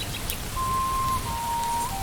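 Steady rain falling, with a soft melody of long held pure notes over it, stepping down in pitch about halfway through.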